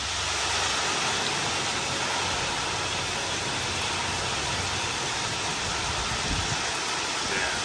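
Heavy rain and strong wind: a loud, steady rushing hiss.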